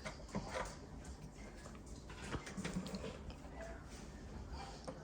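Faint scattered taps and clicks from handling a level against the work and marking the spot to cut.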